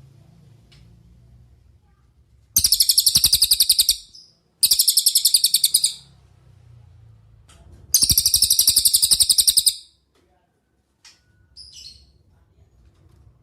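Cililin songbird singing three loud, very rapid high trills of about one and a half seconds each, then a short, faint call near the end.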